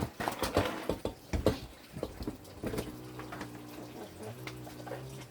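Knocks and clatter as a refrigerator is handled and set down on the floor, then a steady low hum sets in about halfway through.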